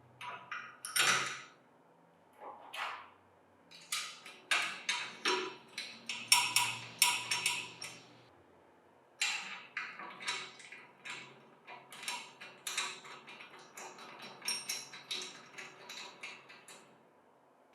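Hard parts being handled and fitted together in the workshop: an irregular run of small clicks, taps and clinks, with short pauses between the clusters.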